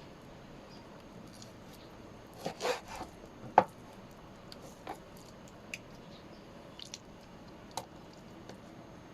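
Scattered food-preparation handling sounds: soft squishing with light clicks, and a sharp knock about three and a half seconds in.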